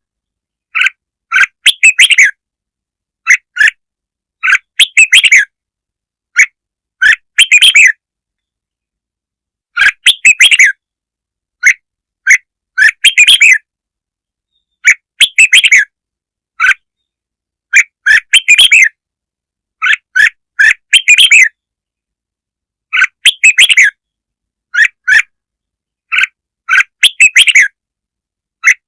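Red-whiskered bulbul song: loud, short chirpy phrases repeated every second or two with silent gaps between them. It is a recorded lure call, played to rouse and attract bulbuls.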